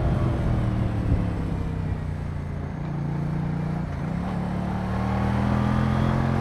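Moto Guzzi V100 Mandello's transverse V-twin engine running under way, the note easing slightly and then, after a short break about four seconds in, the revs climbing steadily.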